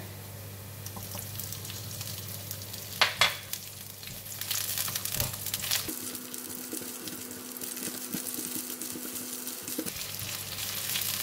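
Ginger slices and chopped garlic sizzling in hot oil in a non-stick wok, stirred with a silicone spatula. A brief loud crackle comes about three seconds in, and the frying grows louder from about four and a half seconds.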